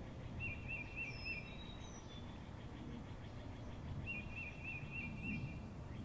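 A bird singing two short phrases of four or five quick repeated notes, about three and a half seconds apart, with a few fainter higher calls, over a steady low outdoor background rumble.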